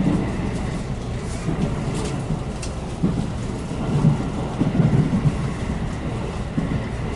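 JR Central 373-series electric train running at speed, heard inside the passenger car: a steady low rumble with occasional short clicks and knocks from the wheels and running gear.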